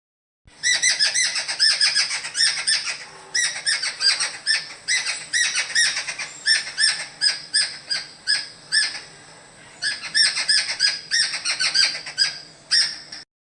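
Recorded calls of the bird named in Nepali as kande bhyakur: a rapid chatter of short, repeated ringing notes, several a second. It eases off briefly about three seconds in and again near ten seconds, then stops abruptly near the end.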